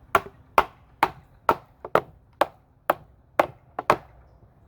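A steady run of sharp knocks on the old MDF subwoofer box, about two a second, stopping shortly before the end. The panel being struck is the water-swollen one that is coming apart.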